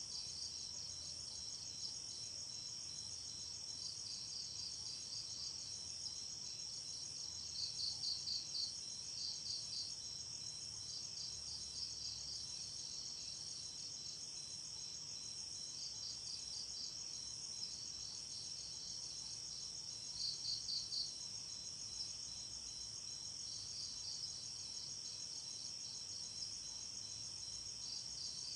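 Night-time chorus of crickets: a continuous high-pitched shrilling, over which a nearer cricket chirps in short pulsed trills that repeat every few seconds, loudest about eight seconds in and again around twenty seconds in.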